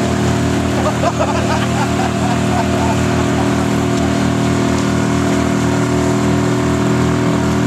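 Small boat's outboard motor running under way at a steady speed, a constant drone that holds level without revving up or down.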